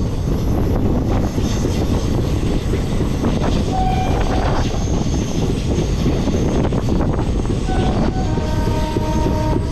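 A passenger train running at speed, with a loud, steady rumble of wheels on track and rushing air. A horn sounds briefly about four seconds in and again for over a second near the end.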